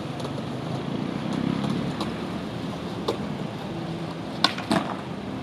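An engine running steadily as a low rumble under wind and water noise, with a sharp knock about three seconds in and two quick clicks near the end.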